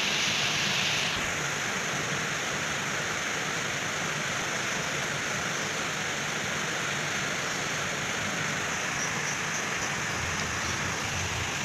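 Steady hissing background noise with no speech. The brighter, higher part of the hiss falls away about a second in.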